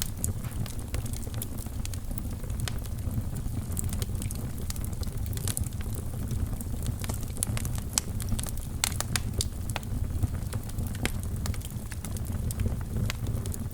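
Wood fire burning in a fireplace: a steady low rumble of flames with frequent irregular crackles and sharp pops, a cluster of louder pops past the middle.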